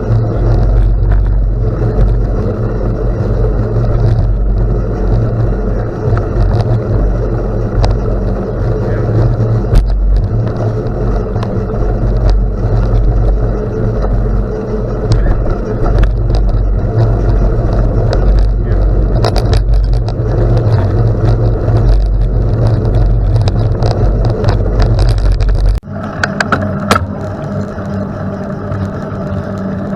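Wind rumbling on the microphone and road noise from a bicycle ridden on a gravel road, with scattered small clicks and rattles. Near the end the low rumble drops off sharply.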